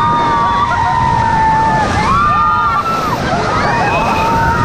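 Several rafters screaming and whooping in long, overlapping cries over the steady rush of whitewater as the raft goes through a rapid.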